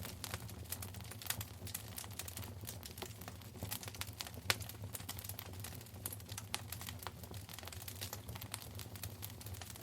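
Wood fire crackling in a fireplace: a dense, irregular run of small snaps and pops, with one louder pop about four and a half seconds in, over a steady low hum.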